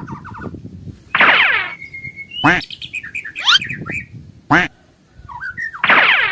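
A quick string of bird-like chirps and whistling glides, two of them long swoops falling steeply in pitch, with a short held whistle between.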